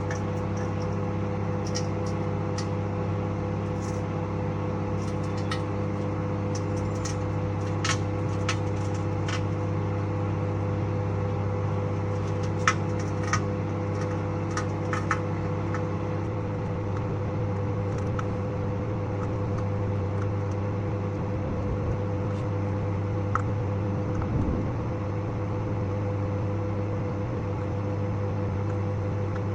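Microwave oven running with a steady hum while a DVD inside arcs, giving sharp snapping clicks scattered through the first half and a few later. The clicks are sparks from the disc's metal reflective layer.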